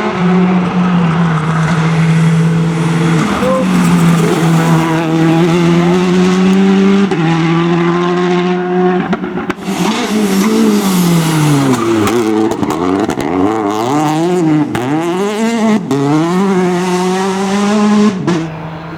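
Rally car engine at high, fairly steady revs with a couple of small pitch steps, then revving sharply up and down again and again. A few sharp cracks sound about halfway through, and the engine sound drops off abruptly near the end.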